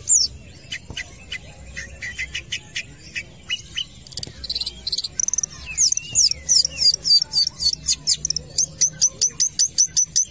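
Long-tailed shrike (cendet) singing vigorously: a fast run of short, sharp high chirps and whistles that settles into a rapid, even series of notes, about three or four a second, from about halfway through.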